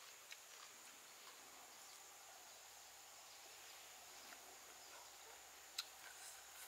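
Near silence: a faint steady hiss with a thin high steady tone, and a few soft clicks of a person biting and chewing food, the sharpest about six seconds in.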